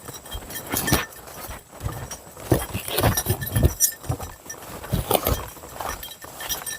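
Irregular footsteps and scuffs on a rough mountain path, with a few sharper knocks and a light rustle.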